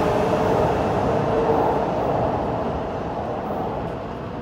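Shinkansen 500 Series train pulling away, its running rumble with a faint whine fading steadily as the rear car passes and recedes; the whine dies out about halfway through.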